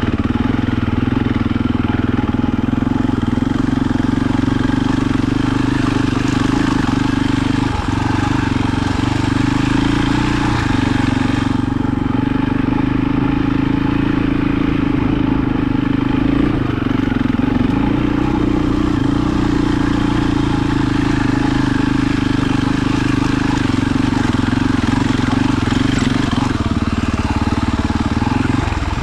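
A vehicle engine running steadily at a fairly constant speed, with a strong, even hum.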